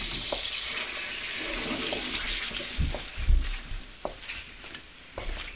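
Boneless chicken pieces sizzling in oil in a steel wok while being stirred with a wooden spatula, with a few sharp knocks of the spatula against the wok. The sizzle thins out in the last second or two.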